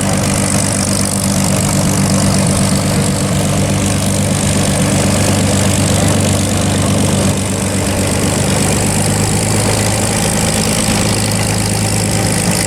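Piston engine of a World War II warbird idling steadily as it taxis, with a low, even note. The note shifts slightly about seven seconds in.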